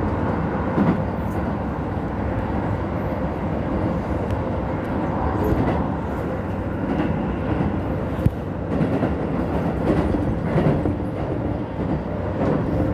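Keisei 3000 series electric commuter train running on the rails: a steady rumble with one sharp click about eight seconds in.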